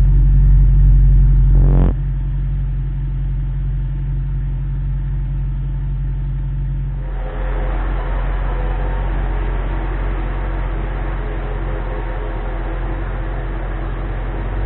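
Audi RS5's 4.2-litre V8 through a valved cat-back exhaust, heard from inside the cabin as a steady low drone at a held engine speed. About two seconds in there is a brief click, and the drone drops to a quieter, lower note. From about seven seconds in, a higher steady hum and road noise join it.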